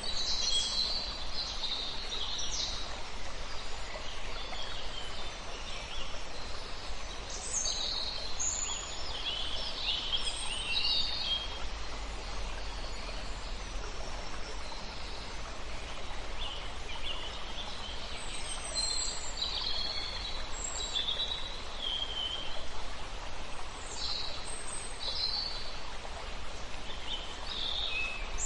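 Several songbirds singing in short, high chirping phrases over a steady wash of running water from a river.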